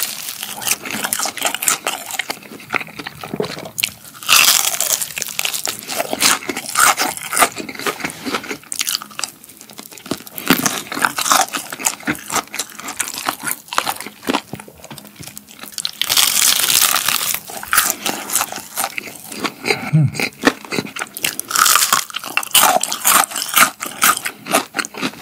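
Close-miked biting and chewing of crispy battered fried chicken: bursts of crust crunching with quieter chewing between them.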